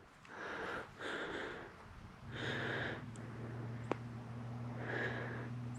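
Breathing close to the microphone: a few short puffs of breath. A low steady hum comes in about two seconds in, and there is a single sharp click near the four-second mark.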